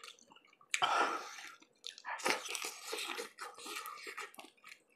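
Close-miked chewing and wet mouth sounds of someone eating lobster in sour soup, with irregular smacks, crunches and longer hissy stretches about a second in and from about two seconds on.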